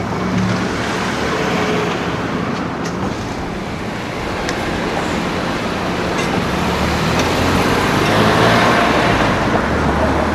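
City street traffic: car engines running and tyre noise, swelling as a vehicle passes close about eight seconds in.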